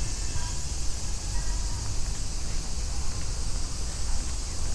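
Steady high-pitched chorus of insects over a low rumble of city traffic.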